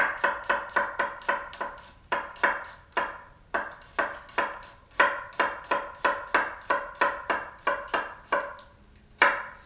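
Knife chopping garlic on a cutting board: quick, steady strikes about three a second with a couple of brief pauses.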